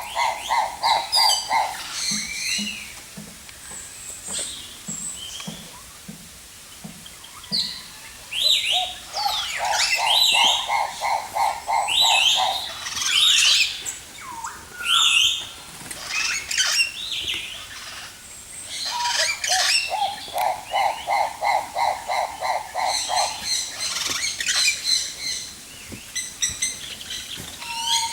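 Several aviary birds calling together: repeated fast trills and many short rising chirps and whistles.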